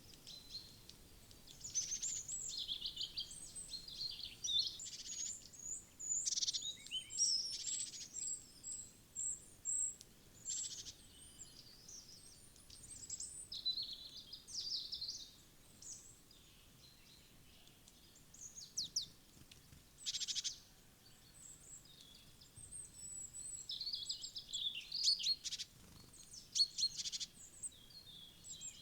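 Small woodland songbirds calling and chirping in short, high, overlapping bursts, with quieter gaps between. The calling is busiest in the first ten seconds and again near the end.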